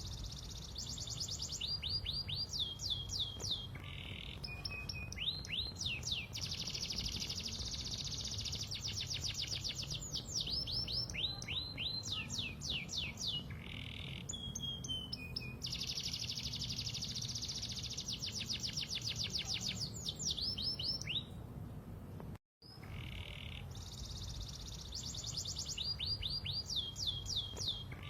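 Pied domestic canary singing steadily in long phrases: fast rolling trills alternating with runs of sweeping whistled notes. The sound cuts out completely for a moment about 22 seconds in.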